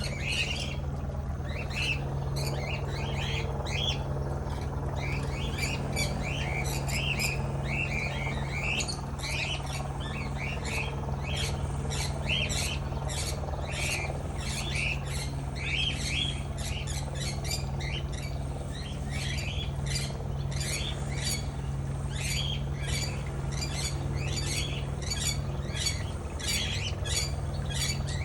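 Budgerigar chattering in quick, short chirps and squawks, almost without pause, over a steady low hum.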